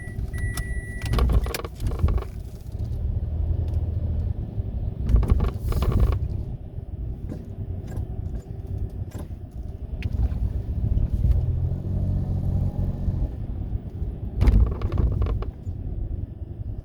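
Mitsubishi Mirage running, heard as a steady low rumble with several short rattles or knocks: one pair early on, a cluster about five to six seconds in, and one near the end.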